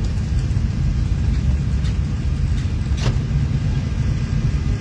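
Car engine running at idle, a steady low rumble, with a brief click about three seconds in.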